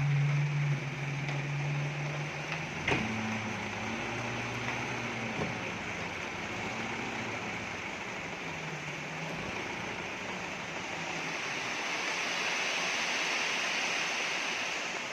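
Dump truck engine running, its pitch shifting a little in the first few seconds, under a steady hiss of rain. A single sharp knock comes about three seconds in.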